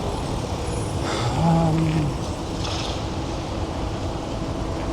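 Steady wind rumble on the microphone and street traffic noise while cycling on a city road, with a short steady-pitched hum about a second in.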